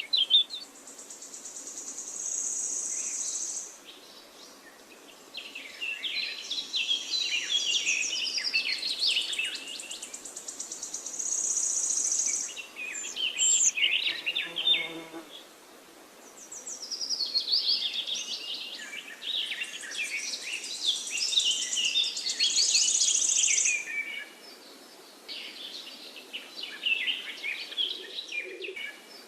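Songbirds singing in quick, chirping phrases that come and go, with a high, steady buzzing trill sounding three times, once near the start, once in the middle and once in the latter half.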